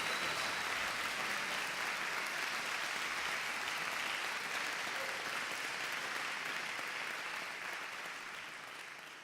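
Audience applauding, steady at first and then fading away over the last couple of seconds.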